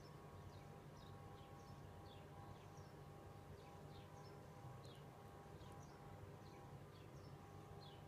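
Near silence with faint high chirps repeating about twice a second over a faint low hum.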